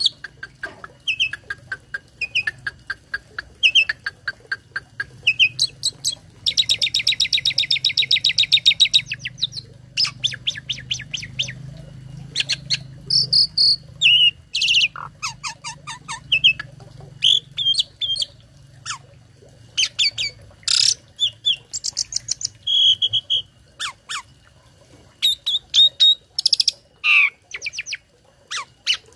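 A tame pet starling (jalak) singing a varied song of chirps, short whistles and sharp calls, full of learned fills, with a long fast rattling trill about a third of the way through. A faint low hum lies underneath.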